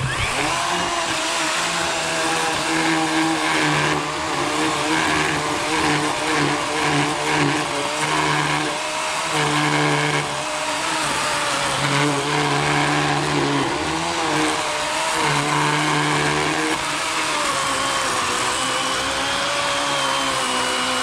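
Worx WG384 40-volt electric chainsaw with an 18-inch Oregon bar, switched on at the start and cutting into a large fallen log. Its motor whine runs steadily, with the lower tones coming and going as the chain takes and eases its load in the wood.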